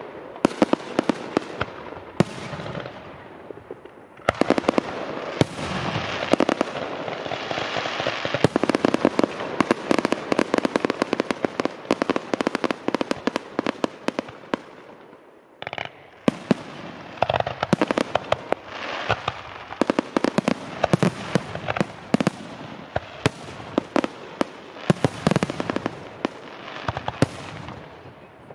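New Year's fireworks going off: a dense run of sharp bangs and firecracker crackling. It thins out briefly about halfway through, then picks up again.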